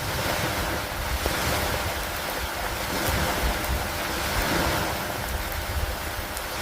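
Steady rain falling on a wooden dock, an even hiss with faint scattered drop ticks, under low, uneven rumbling from wind on the microphone. The overall sound swells and eases slowly every few seconds.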